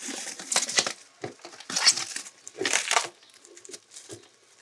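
Rustling, crunching handling noises in several short bursts as a wooden bird breeding box is handled and opened.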